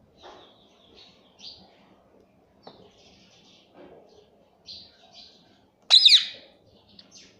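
Ring-necked parakeet making scattered soft, high chirps, then one loud, short screech about six seconds in that falls sharply in pitch.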